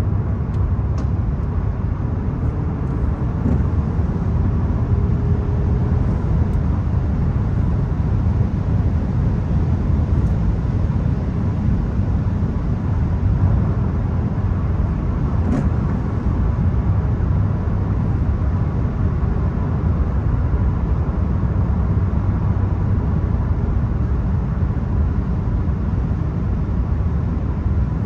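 Volkswagen Golf 1.0 TSI three-cylinder turbo petrol car being driven, a steady low rumble of engine and road noise. Faint engine tones rise gently a few seconds in.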